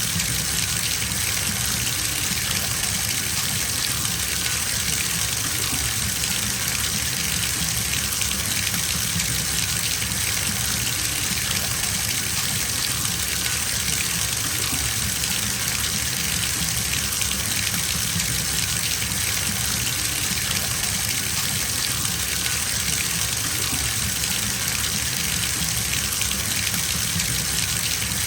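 Bathtub tap running steadily, water gushing into a filling tub: an even splashing rush with a low rumble beneath, unchanging throughout.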